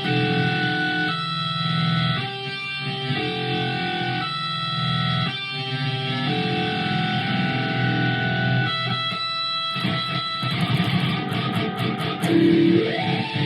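Electric guitar played through a wah pedal and effects: held notes that change about once a second, then a run of fast, choppy picked strokes near the end.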